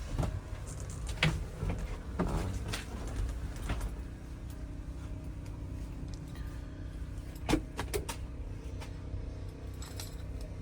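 A handful of short clicks and knocks, the sharpest about seven and a half seconds in, over a steady low hum; the sounds of handling and moving about inside a truck cab.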